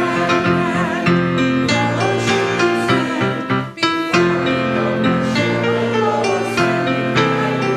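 Piano accompaniment with a congregation singing a slow closing song, with a brief break between phrases about four seconds in.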